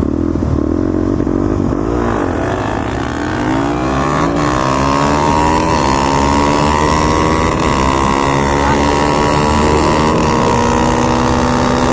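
Single-cylinder supermoto motorcycle engine accelerating hard for a race, its pitch climbing over a few seconds and then holding high at speed.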